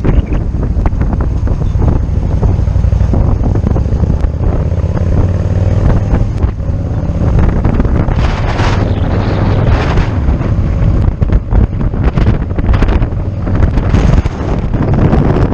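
Wind buffeting the microphone on a moving motorcycle, over a steady low rumble of the engine and road.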